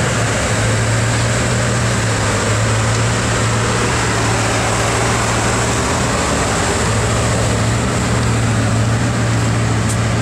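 Bugatti Veyron's W16 engine, fitted with a sports exhaust, idling steadily with a constant low hum.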